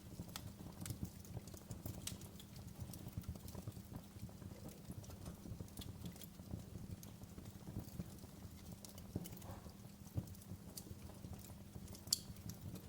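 Wood fire crackling in a fireplace: a steady low rumble of burning logs with frequent small, irregular pops and snaps, and one sharper pop near the end.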